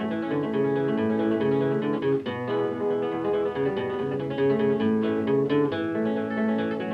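Background music: acoustic guitar played in a Latin, flamenco-like style, plucked notes and strums.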